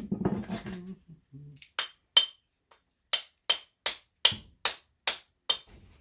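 Hammer blows on the steel case of a fluorescent light ballast being broken open for its copper. After a brief rustle, about nine sharp, ringing metal strikes come at a steady pace of two or three a second, starting about two seconds in.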